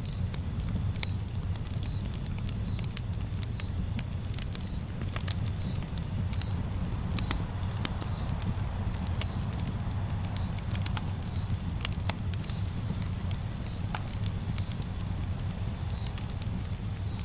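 Campfire crackling, with irregular sharp pops over a steady low rumble of the burning fire. A faint, short high chirp repeats about once a second throughout.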